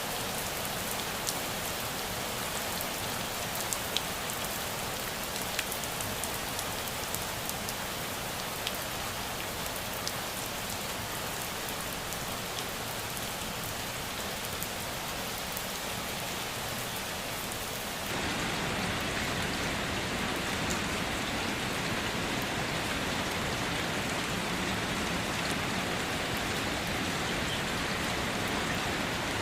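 Steady rain falling, with scattered drip ticks. About two-thirds of the way through the sound changes abruptly to a slightly louder, fuller rain hiss, as if cut to another recording.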